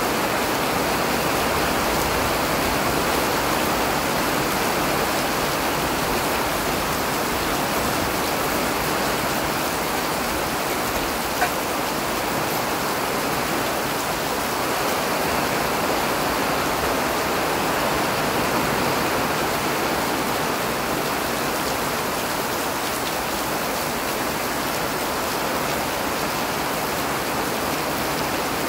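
Steady, even rain falling, with one sharp tick about eleven seconds in.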